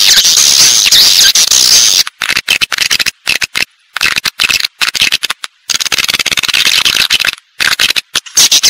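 Edible-nest swiftlets calling: a dense, high-pitched chattering twitter, broken by several short silences. It is a swiftlet lure call, the kind played to draw swiftlets in to roost and nest.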